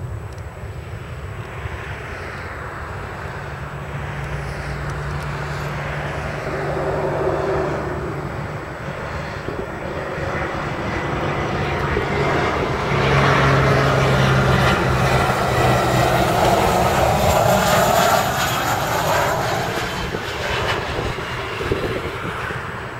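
Boeing 737-500 jet engines (CFM56) on landing: the engine noise builds, is loudest and sweeping for several seconds past the middle as the jet goes by, then eases off near the end.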